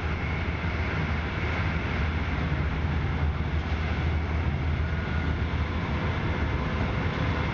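Steady running noise of a moving passenger train heard from inside the carriage: a constant low rumble of the wheels on the track with an even hiss over it.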